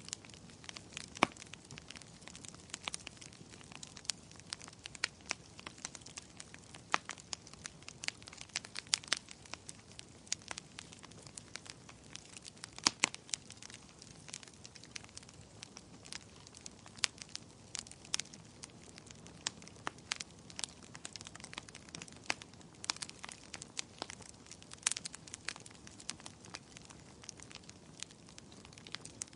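Wood fire in a fireplace crackling, with irregular sharp pops and snaps over a soft steady hiss; a few pops stand out louder than the rest.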